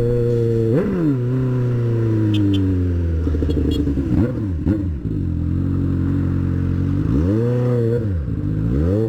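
Motorcycle engine running, its pitch dropping and picking up again with the throttle, then revved up and down in quick blips near the end.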